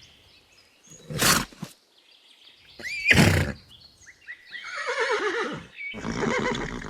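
Horse: two short, loud, breathy snorts, then a neigh that falls in pitch about five seconds in.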